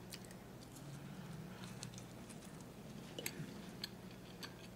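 Faint chewing of a soft, gooey black walnut chocolate chip cookie, with a few small clicks scattered through it.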